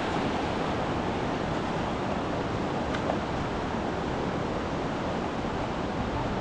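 Steady rushing of a flooded river.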